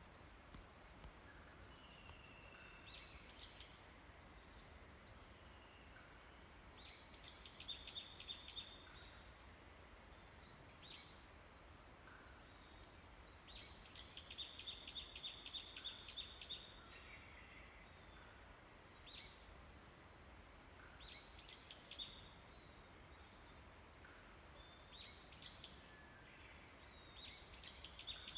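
Several small songbirds singing together in an early-morning chorus: scattered chirps and whistles, with a rapid high trill of repeated notes coming back every several seconds, all faint over a steady hiss.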